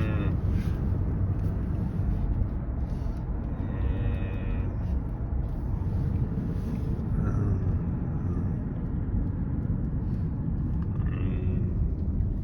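Steady low rumble of road and rain noise inside a moving car's cabin, with faint traces of radio music or voice at times.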